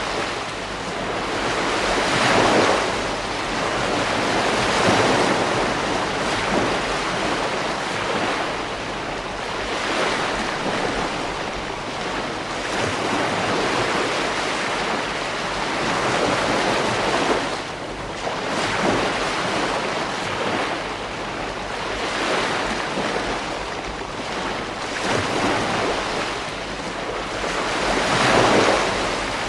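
Ocean waves breaking and washing on a beach, the surf swelling and fading in slow surges every few seconds, with louder swells near the start and near the end.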